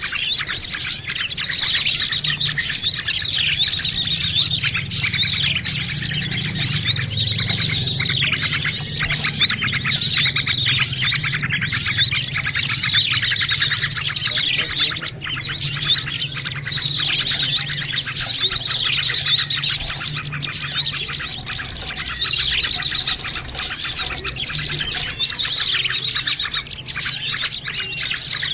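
A dense chorus of many small songbirds chirping and twittering without pause, the agitated, noisy calls used in a bird-lure (pikat) recording. A faint steady low hum runs underneath.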